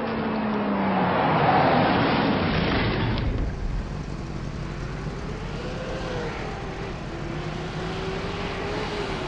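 Cartoon car engine sound effects: a vehicle rushes by with its pitch falling, swelling and then fading over the first three seconds. After a sudden cut about three seconds in, a steady engine hum with a slowly wavering whine follows.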